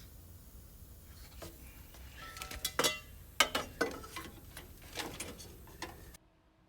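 A run of irregular sharp clicks and knocks over a low steady hum, cutting off abruptly near the end.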